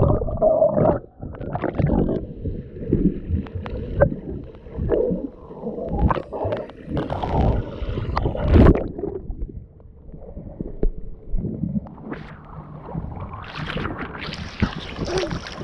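Sea water sloshing and splashing in irregular surges.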